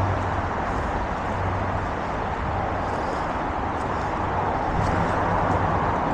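Steady rumble and hiss of freeway traffic passing overhead and alongside, heard from beneath a freeway ramp.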